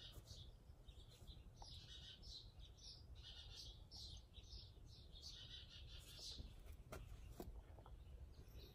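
Faint chirping of backyard birds: a continual string of short, high chirps from several birds.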